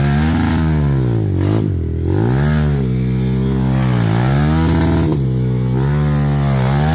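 Dirt bike engine running under load, its revs dropping and picking up again several times as the throttle is worked.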